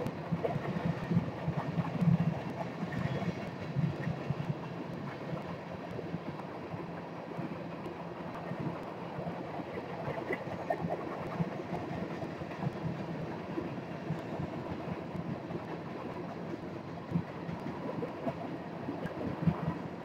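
Empty steel coal cars of a freight train rolling past: a steady wheel-on-rail rumble with scattered clicks and rattles, a little louder in the first few seconds.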